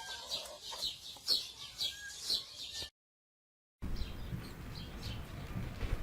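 Polish chickens clucking, with short high calls repeating about twice a second. The sound cuts out completely for about a second midway, then fainter calls resume.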